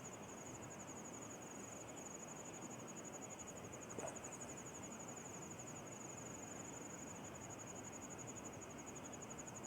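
Insects trilling steadily, a high, finely pulsing buzz, over the even hiss of a running stream. There is one faint click about four seconds in.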